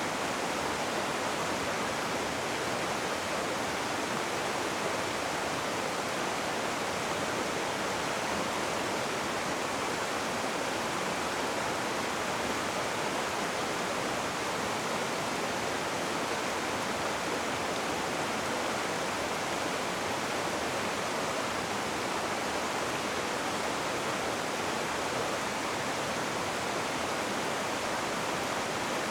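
Rushing river water, a steady even rush with no breaks or changes.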